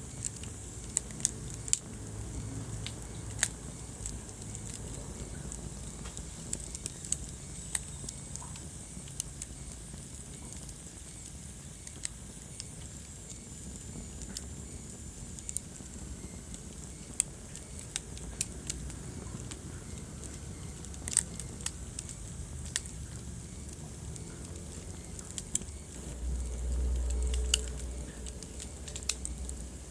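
Wood fire burning in a fireplace: irregular sharp crackles and pops over a steady low rumble of the flames, which swells briefly near the end.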